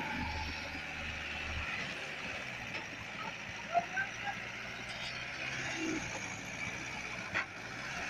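Mahindra Sarpanch 595 DI tractor's diesel engine running steadily, pulling a sugarcane trolley, with a short click about seven seconds in.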